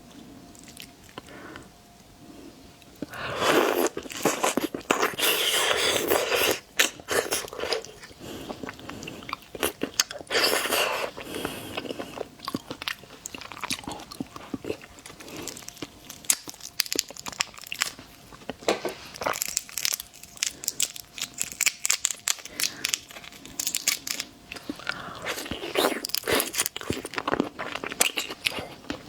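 Close-miked biting and chewing of seafood, with dense, irregular crunching that starts about three seconds in and continues.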